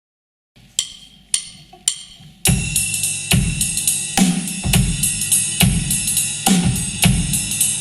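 A live band starting a song. Three sharp separate strikes come first, then about two and a half seconds in the full band enters, with a drum kit keeping a steady beat of bass drum, snare and cymbal.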